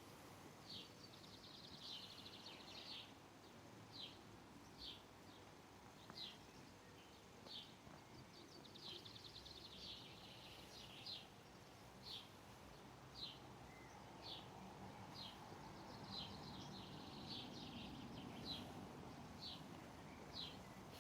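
A bird calling, faint: short high chirps about once a second, with a few quick trills among them, over a low background hiss.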